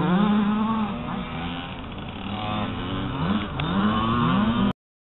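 Motocross motorcycle engine revving up and down in repeated rising and falling sweeps, cutting off suddenly near the end.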